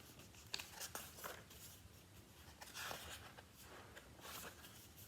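Faint paper rustles and a few light taps: the pages of a picture book being handled and turned.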